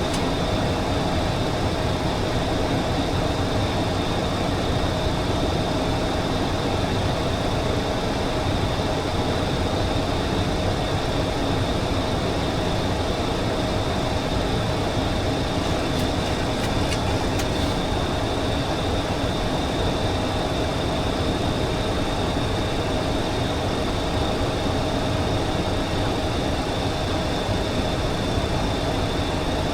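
Steady flight-deck noise of a Boeing 737-800 in flight: a constant rush of airflow and engine drone, with a low steady hum and a high steady whine running through it.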